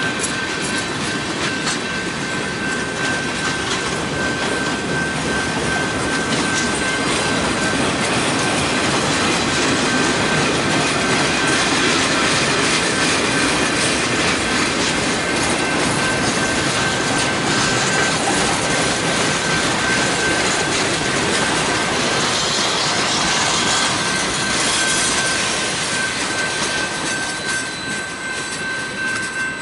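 Freight cars, covered hoppers and boxcars, rolling past steadily, with wheels clacking and rattling over the rails. A thin steady high-pitched tone runs through it. The noise eases slightly near the end.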